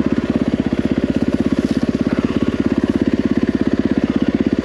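Yamaha WR450F's single-cylinder four-stroke engine running steadily at low revs, an even rapid beat of firing pulses with no revving.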